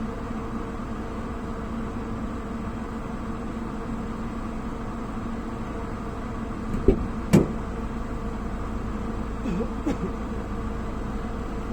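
Steady drone of a vehicle engine running, with two sharp knocks about seven seconds in.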